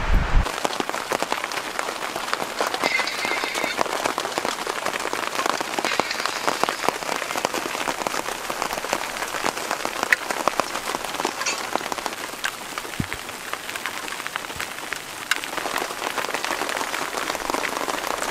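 Steady rainfall: an even hiss made of many small drop hits, with no let-up.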